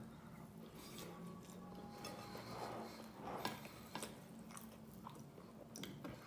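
Faint chewing and mouth sounds of a person eating rice by hand, with scattered soft clicks as her fingers scoop and mix the rice in a glass bowl.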